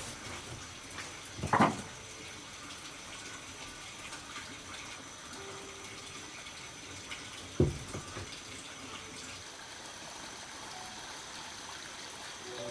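Steady running water, with two loud short thumps about six seconds apart.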